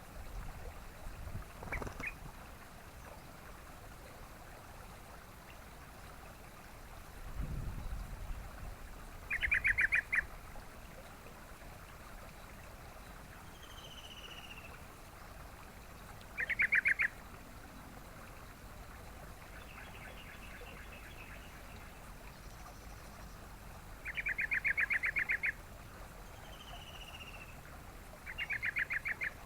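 Yellow-vented bulbul calls: four loud, rapid bubbling chatters, each lasting about half a second to a second and a half, with short falling whistles between them. A low rumble comes near the start and again about seven seconds in.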